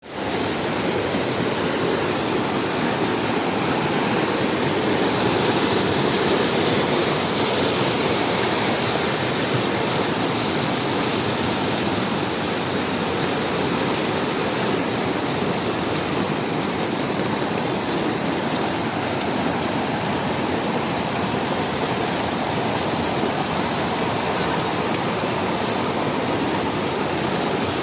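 A river in flood, swollen and fast, rushing steadily with a constant, even noise of heavy moving water.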